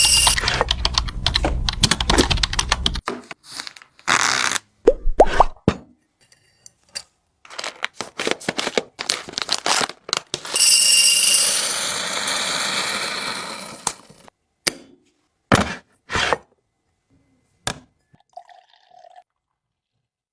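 Household containers and packaging being handled during a restock: a run of sharp clicks, taps and rustles, with a steady rushing sound lasting about four seconds in the middle, then a few scattered clicks.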